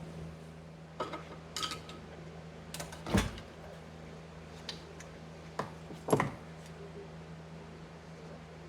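Scattered metal clinks and knocks of small-engine parts and hand tools being handled, about seven in all, the loudest a little past three seconds in, over a steady low hum.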